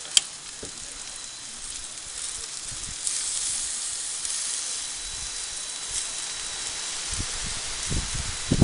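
Beef round sizzling on a hot grill: a steady hiss that grows a little about three seconds in, with a sharp click just after it begins.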